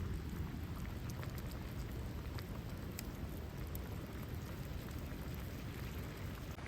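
Campfire crackling: a steady low rush of burning wood with many small, irregular pops.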